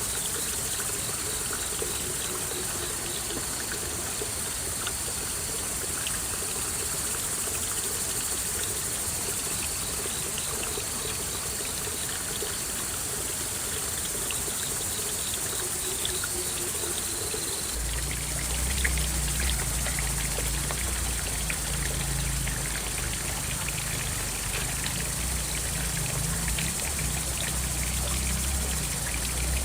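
Steady trickle of running water with a high hiss above it; a low rumble comes in suddenly a little past halfway and continues.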